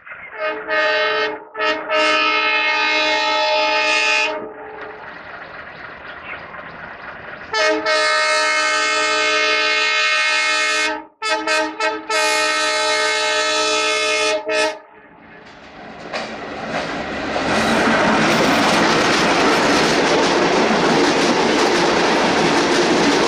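Broad-gauge diesel locomotive's multi-tone horn sounding as the express approaches: a blast of about four seconds with a brief break, then a longer blast of about seven seconds broken by short gaps. Then the train's rumble and wheels clattering over the rails rise and stay loud as the coaches run past close by at speed.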